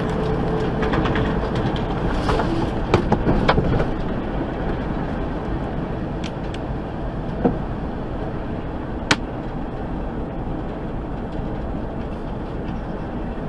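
Steady vehicle rumble with a few sharp knocks: a cluster about three seconds in, then single clicks near seven and a half and nine seconds.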